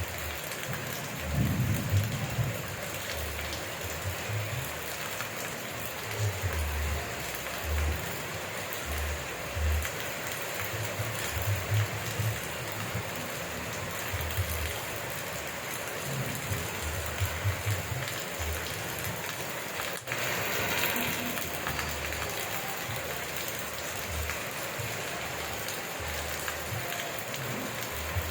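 Steady rain falling, an even hiss, with irregular low thuds coming through now and then.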